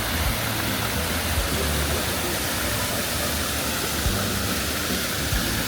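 Steady outdoor rushing noise with a low rumble underneath and a few soft low thumps.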